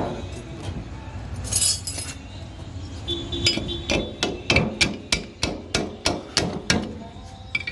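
Hammer tapping on the metal parts of an electric water pump being taken apart: a brief scrape, then from about three and a half seconds in a quick series of sharp knocks, roughly three a second, some ringing.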